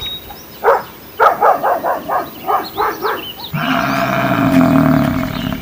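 A dog barking and yipping in a quick string of short calls. About three and a half seconds in, a louder, drawn-out call follows and lasts about two seconds.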